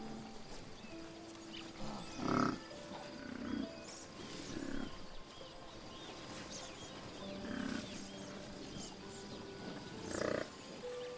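Low animal calls over soft background music, the loudest about two seconds in and another near the end, with a series of faint high chirps in between.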